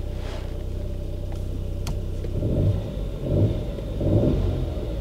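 Kia Ceed's 1.0-litre three-cylinder turbo petrol engine running just after a start, heard from inside the cabin. It idles steadily at first, then the note swells and dips a few times in the second half, as if with light revs, and there is a single click a little under two seconds in.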